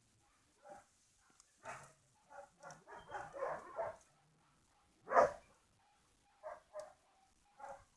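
Puppies yelping and whining in a string of short, high calls, with one louder yelp about five seconds in.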